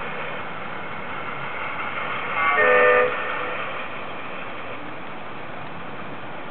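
Garden-railway model freight train's horn sounding one short toot of about half a second, a little over two seconds in, over a steady hiss.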